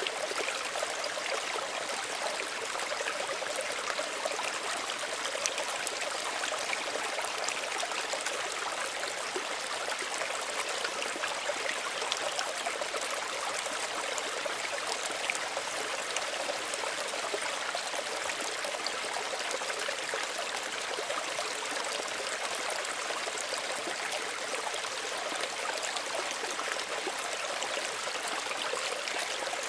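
Small stream running over stones, a steady babble and trickle of water with fine splashing.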